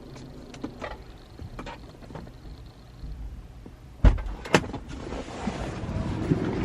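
A low hum inside a car, then a heavy thud about four seconds in and a sharper knock half a second later, typical of a car door being opened or shut. A steady low hum grows louder near the end.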